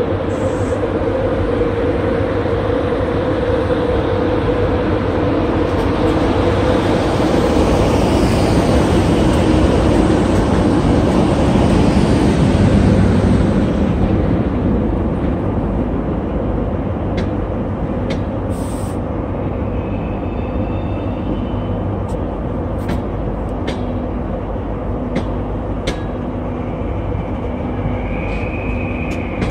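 LNER Azuma train running slowly along the platform close by, a loud rumble that builds as the front end passes and then eases. After that come a series of sharp clicks and, near the end, a short high squeal.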